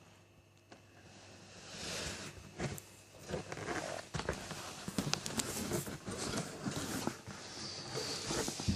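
Budgies moving about in the cage and nest box: a rapid, scratchy run of clicks, rustling and rasping that grows louder after about a second and a half.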